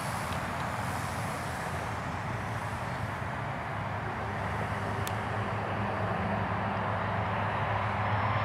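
Steady outdoor noise with a low rumbling hum that grows a little stronger in the second half, and a single sharp click about five seconds in.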